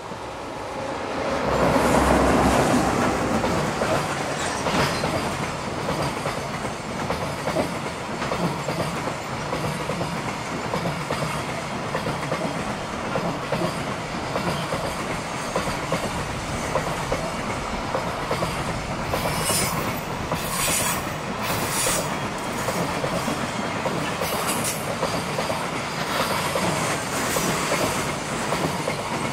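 Freight train passing close by: an EF210 electric locomotive hauling a long string of Koki container wagons. It swells to its loudest about two seconds in, then goes on as a steady clatter of wagon wheels over the rail joints, with a few brief high wheel squeals about two-thirds of the way through.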